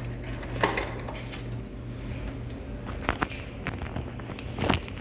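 A handful of sharp clicks and knocks of hard objects being handled, in pairs about a second in and three seconds in and once more near the end, over a low steady hum.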